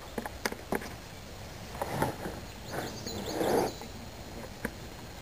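Quiet outdoor ambience with a few clicks and rustles, the loudest about three and a half seconds in, and a short high bird call near the middle.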